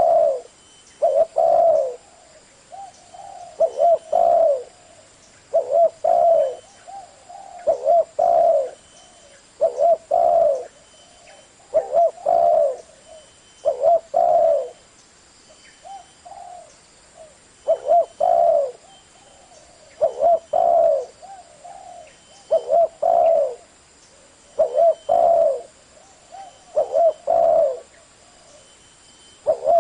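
Spotted dove cooing: short phrases of two or three coos repeated about every two seconds.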